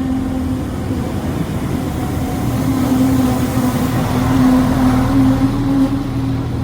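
A vehicle running with a steady, droning hum over rumbling road or rail noise, swelling a little in the middle.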